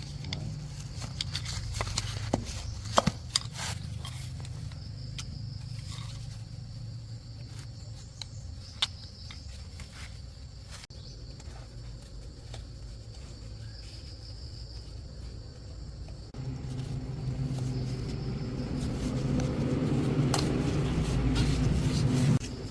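Scattered light metallic clicks and knocks of hand work on hydraulic cylinder parts, over a steady low hum and insects chirping. About two-thirds of the way in, a louder steady machine hum starts, grows louder, and cuts off suddenly near the end.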